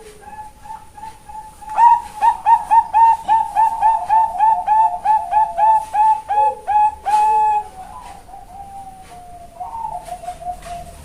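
Female zebra dove (Bangkok perkutut) cooing: a few soft notes, then about two seconds in a fast run of loud clipped coos, about three a second, ending on a longer held note, after which it trails off into softer notes.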